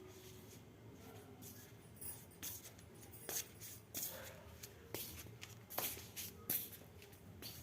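Irregular rustling and crackling clicks, sparse at first and getting busier from about two seconds in, the loudest snaps late on.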